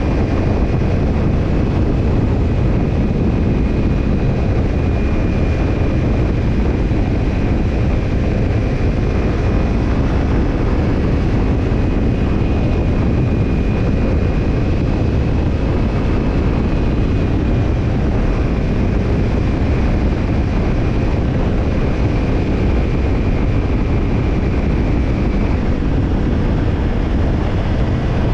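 Kawasaki Ninja 250's parallel-twin engine through a BEET NASSERT Evolution Type II titanium slip-on muffler, running at a steady pace while riding, mixed with a heavy low rumble of road and wind noise. No revving or gear changes stand out.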